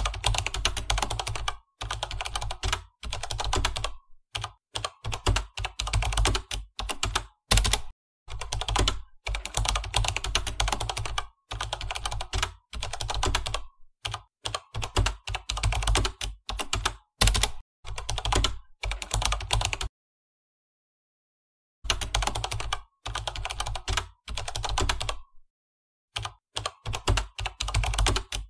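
Computer keyboard typing in quick runs of keystrokes broken by short pauses, with a stop of about two seconds roughly twenty seconds in.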